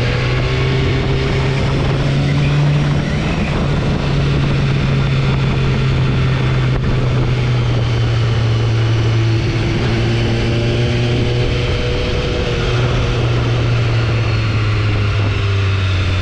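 Motorcycle engine running at a steady, even pitch while riding at a constant speed, over a continuous rush of wind and road noise.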